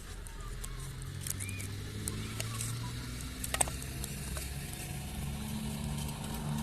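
A low engine hum in the background that shifts slightly in pitch, with scattered light clicks and ticks, the sharpest about three and a half seconds in.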